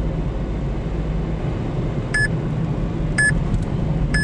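Steady low road and engine rumble inside a moving car, with three short electronic beeps about a second apart starting about halfway through.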